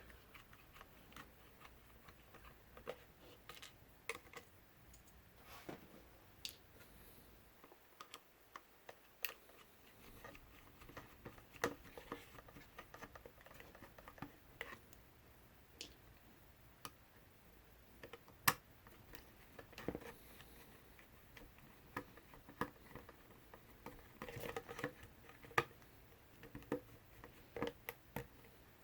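Small 1.5 mm hex screwdriver working tiny screws out of a DJI Mavic 2 Pro drone's plastic shell: faint, irregular clicks and ticks of the bit and screws, with a few sharper clicks along the way.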